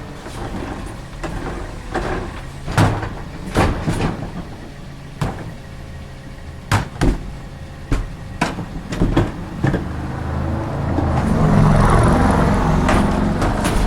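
Garbage truck running with its engine idling while metal and plastic clank and bang in a string of sharp knocks, as trash carts are handled at the tippers and hopper. Near the end the truck gets louder for a couple of seconds as the engine speeds up.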